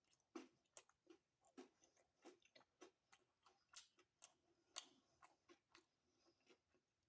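Faint close-miked chewing of homemade pizza: soft, wet mouth clicks and smacks, two or three a second.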